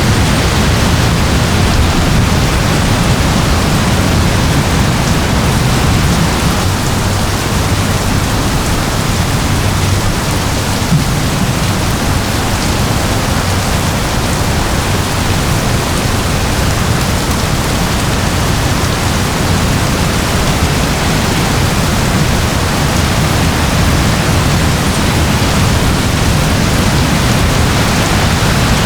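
Steady rain falling, an even, unbroken rush of noise that stays the same throughout.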